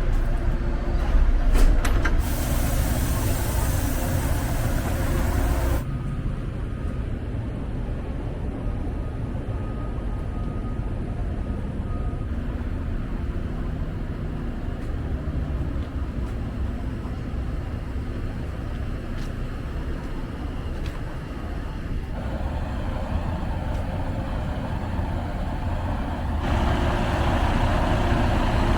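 Semi-truck's diesel engine running with a steady low rumble. About two seconds in, a sharp hiss comes in and lasts about three and a half seconds, then cuts off. Near the end the sound grows louder and fuller.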